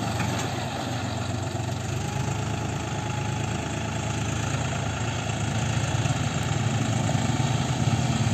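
John Deere 5045D tractor's three-cylinder diesel engine running steadily, growing a little louder in the last few seconds.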